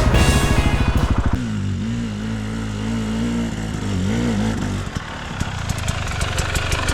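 Dirt bike engine running steadily at low revs, with a brief wavering rev near the middle and a rougher, ticking stretch toward the end. It follows a loud sound that cuts off about a second and a half in.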